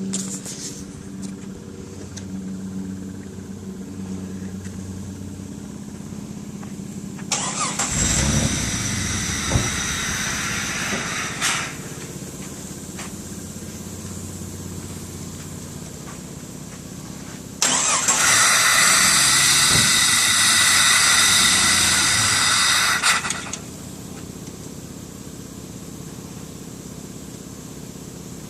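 Jeep Cherokee's 4.0-litre straight-six turned over on the starter twice, once for about four seconds and then, after a pause, for about six seconds, each time dropping back without catching; this Cherokee is listed with a bad fuel pump. A steady low hum runs between the attempts.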